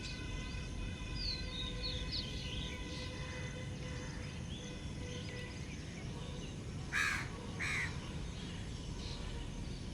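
A crow caws twice, about seven seconds in, over steady outdoor background noise. Faint high chirps of small birds come earlier.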